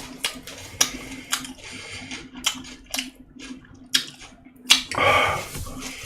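Close-miked eating sounds of bossam and fermented skate being chewed: an irregular run of sharp wet clicks and smacks, with a short louder noisy burst about five seconds in, over a faint steady hum.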